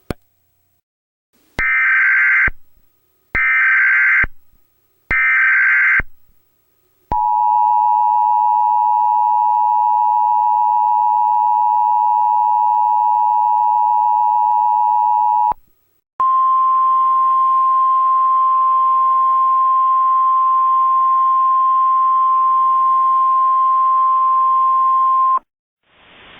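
Emergency Alert System activation tones. Three short buzzing SAME header data bursts come first, then the two-tone EAS attention signal held for about eight seconds. After a brief gap, a single steady alert tone sounds for about nine seconds over a faint hiss.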